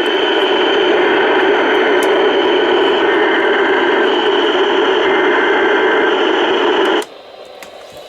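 Loud, steady radio static from a receiver with no signal on it. It cuts out suddenly about seven seconds in, leaving a much quieter hush.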